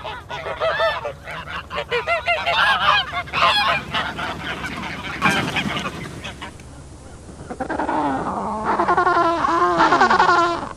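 Geese honking in short repeated calls. After a brief lull about six seconds in, many birds call together in overlapping calls that fall in pitch.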